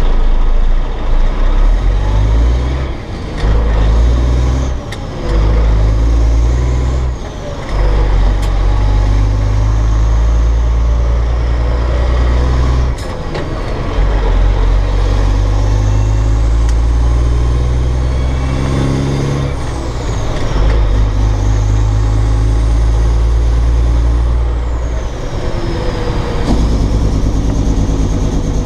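Modified Cat C15 diesel engine of a dump truck pulling through the gears of a 13-speed Eaton Fuller transmission. The engine note breaks off and drops briefly at each clutchless shift, several times, then builds again under load.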